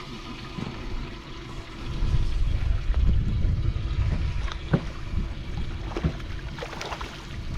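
Boat on the lake: a low rumble of wind and water against the hull, louder a couple of seconds in, with a faint steady hum and a few sharp knocks.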